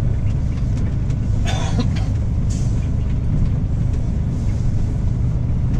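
Semi-truck diesel engine running under way, a steady low drone heard from inside the cab. A brief higher sound comes about a second and a half in.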